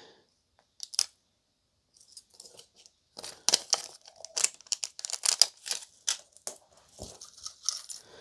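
Thin plastic packaging being handled and torn open: a run of sharp crinkles, tears and small clicks, denser and louder from about three seconds in.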